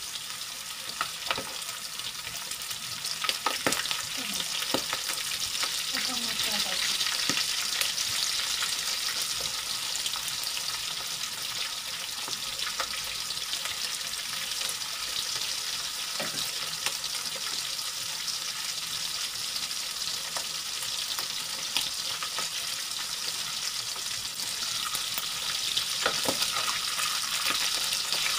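Chicken pieces deep-frying in hot oil: a steady sizzle with scattered pops.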